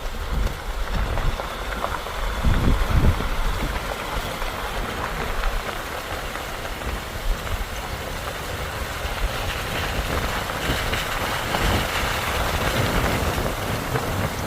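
Vehicle driving a dirt trail: a steady low engine and road rumble, with a few heavier bumps about two to three seconds in.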